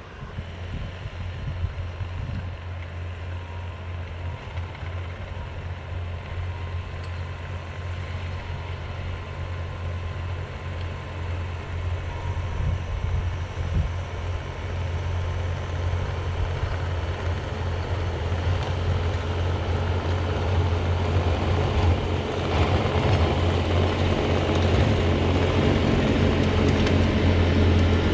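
Bobcat T595 skid-steer loader's diesel engine running steadily with a low hum, growing louder and hissier over the second half.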